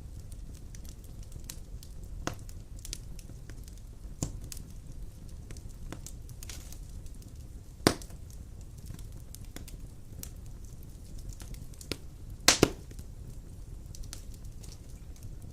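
Large wood logs burning in a fireplace: a steady low rumble of flame with scattered crackles and sharp pops. There is a loud single pop about halfway through and a louder double pop later on.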